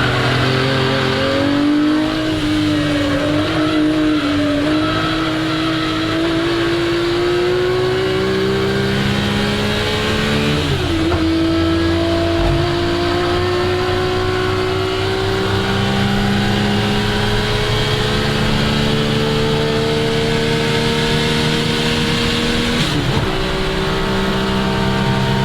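1961 Ferrari 250 GT SWB's Colombo V12 engine accelerating hard, its pitch climbing slowly through long pulls. There is an upshift about eleven seconds in and another near the end.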